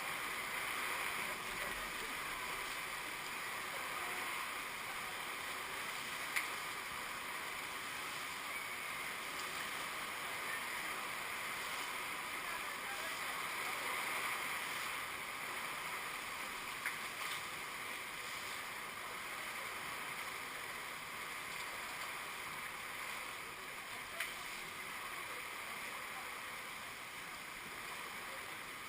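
Heavy downpour of rain: a steady hiss with a few sharp taps.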